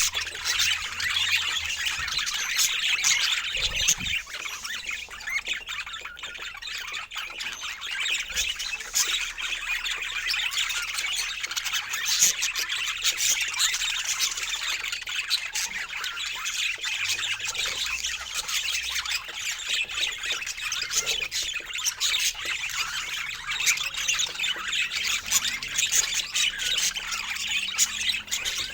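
A flock of birds chattering continuously, many short squawks and chirps overlapping.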